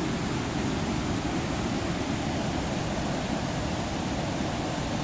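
Steady rush of a waterfall and whitewater rapids close by, an even, unbroken noise.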